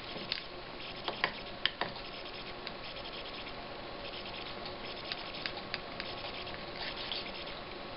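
Small monitor control buttons clicking as they are pressed one after another, a few sharp clicks in the first two seconds, then lighter, sparser ticks over a steady faint hiss.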